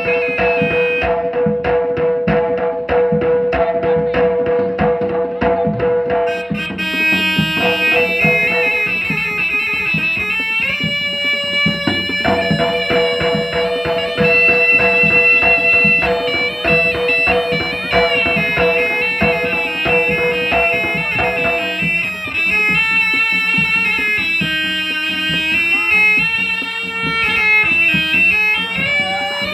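Live jaranan music: a dense pattern of hand-drum strokes with a piercing, held reed-pipe melody over it. After about six seconds the melody takes over and moves through changing notes.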